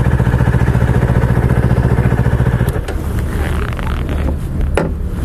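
Honda CBR250RR motorcycle engine idling with a fast, even pulse, turning quieter after about three seconds; a single sharp click near the end.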